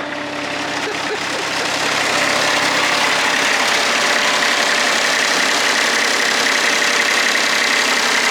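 Kubota D1105 three-cylinder diesel running the MadVac 101D's vacuum fan, a steady rush of moving air over the engine, swelling over the first two seconds and then holding level. The engine is warmed up, its thermostat open.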